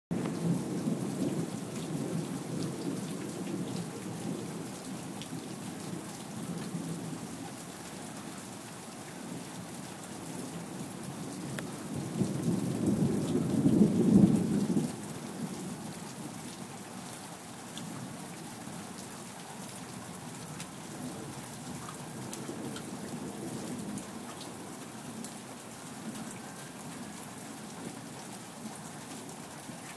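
Steady rain falling, with thunder rumbling: a roll that fades over the first several seconds, then a louder one building about twelve seconds in and dropping off sharply around fifteen seconds.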